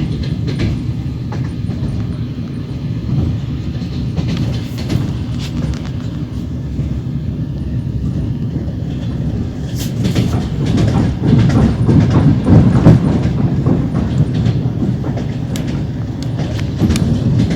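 Train wheels clattering over the rail joints, heard from aboard the moving train, with a steady low rumble under scattered sharp clacks. The sound grows louder for a few seconds past the middle.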